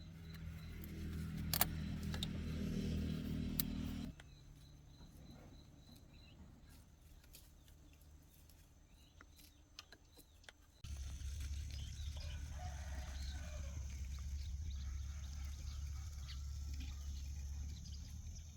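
Chickens clucking and a rooster crowing in the background over a steady low hum. The hum cuts off suddenly about four seconds in, leaving scattered light clicks and taps, and starts again abruptly about eleven seconds in.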